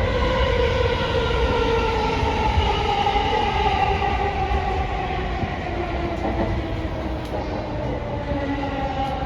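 Sobu Line electric commuter train running on the rails: a steady rumble with a motor whine that glides slowly down in pitch as the train slows.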